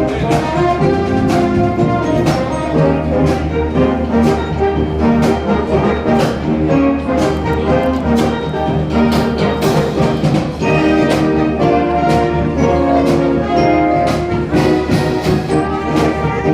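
Wind band playing live, with brass carrying the melody and percussion hitting on a steady beat.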